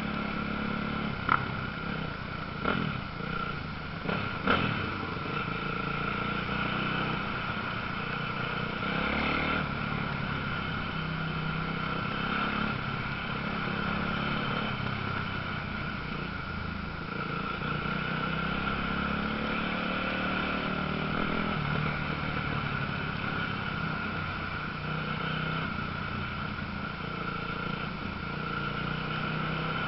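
Motocross motorcycle engines running and revving, a steady rising and falling drone with a few sharp knocks in the first few seconds.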